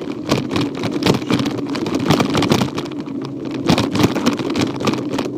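Rolling and rattling noise from a handlebar-mounted phone on a child's mountain bike moving along a trail: a continuous rumble with irregular knocks and clatter as the bike jolts over the ground.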